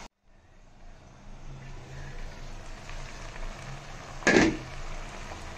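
Potato strips and onion sizzling gently in oil in an open pan, with one sharp knock about four seconds in, louder than anything else.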